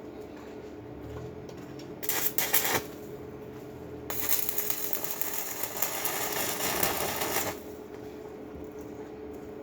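Electric arc welding on a foundation bolt: a short crackling burst of under a second, then a longer steady crackle of about three and a half seconds, over a constant low hum.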